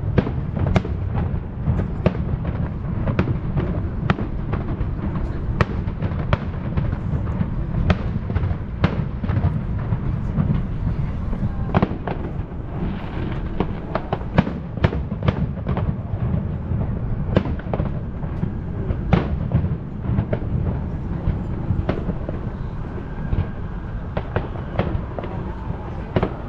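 Aerial fireworks going off in a dense, continuous barrage: sharp bangs several times a second over a constant low rumble of shell bursts.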